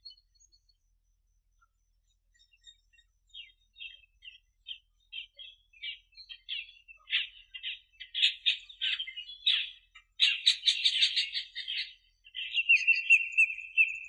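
Birds chirping: scattered short chirps that thicken into a dense, rapid chatter about halfway through, ending in a buzzy trill.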